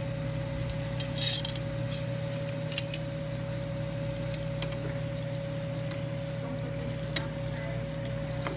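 Meatballs frying in hot oil in a frying pan: a steady sizzle with scattered sharp pops, over a constant low hum and a faint steady tone.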